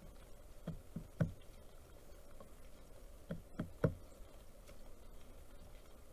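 Pileated woodpecker pecking at a feeder: two quick runs of three sharp knocks, the second run about two and a half seconds after the first.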